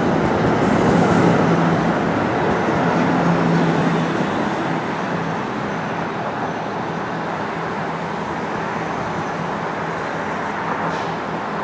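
NJ Transit multilevel commuter train pulling away, pulled from the far end by a PL42AC locomotive. The rumble of its wheels and cars, with a low engine hum, fades over the first few seconds into a steady hiss of rain.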